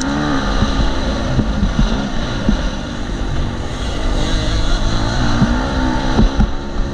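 KTM 250 SX-F motocross bike's single-cylinder four-stroke engine being ridden hard, its pitch rising and falling as the throttle opens and closes, with a few short knocks along the way and a steady rushing noise from wind on the helmet camera.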